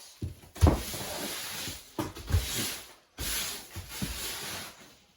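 Rustling, hissing noise in two long stretches, with a few soft knocks.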